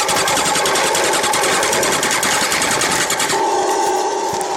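Battery-powered toy truck running, its small electric motor and gears giving a loud, fast buzzing whir that turns smoother and steadier about three seconds in.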